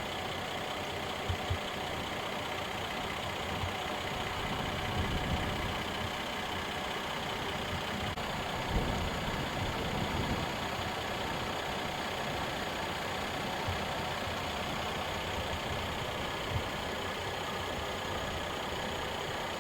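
2013 Mercedes-Benz E300 4Matic's V6 engine idling steadily, heard from inside the cabin, with a few soft knocks.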